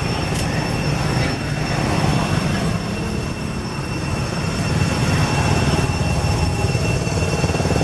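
Steady low mechanical rumble with a constant high-pitched whine.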